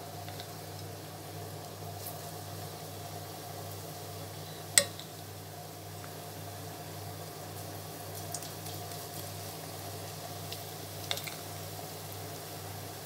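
Pakora batter frying in hot oil, a steady sizzle with a few small pops. About five seconds in there is one sharp, loud clack, with lighter clicks later on, typical of a spoon knocking against the pan.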